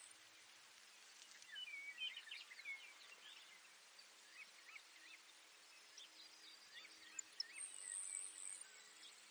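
Faint Baird's sparrow song and chirps over a soft field hiss. A busy cluster of short notes comes about two seconds in, and a high buzzy trill near the end.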